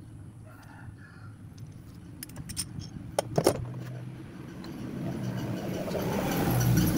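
Light metallic clinking of steel engine parts and tools, with two sharp metal knocks about three seconds in. A motor vehicle's engine then runs steadily and grows louder toward the end.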